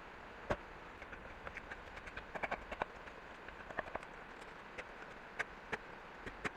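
Irregular light clicks and knocks, a dozen or more at uneven spacing with a cluster near the middle, over a steady background hiss.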